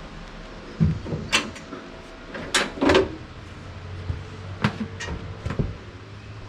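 Clunks, knocks and short scrapes of metal parts being handled on a band sawmill during a blade change, about seven separate sounds with the loudest pair near the middle.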